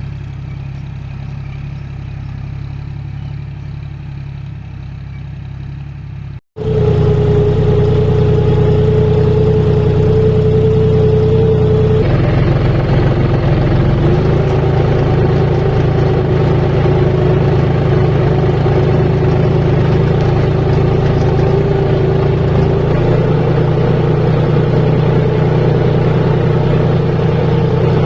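John Deere tractor's diesel engine running steadily. About six seconds in there is a short break, after which the engine is louder and carries a steady whine over its hum.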